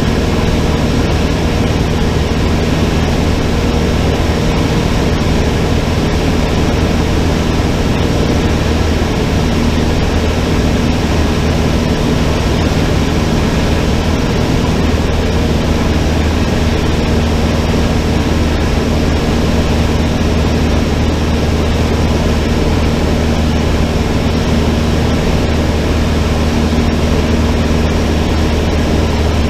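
Cessna 152's Lycoming O-235 four-cylinder engine and propeller running at a steady power setting, a loud, even drone with no change in pitch.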